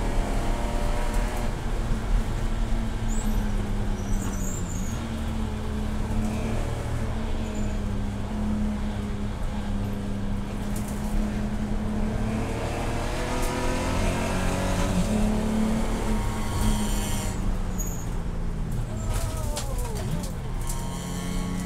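Race car engine running at speed, a steady drone whose pitch dips and climbs again several times, most clearly near the end.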